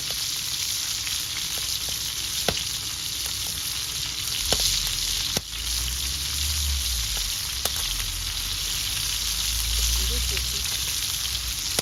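Food sizzling in hot oil: a steady frying hiss with a few sharp crackles. A low rumble joins about halfway through.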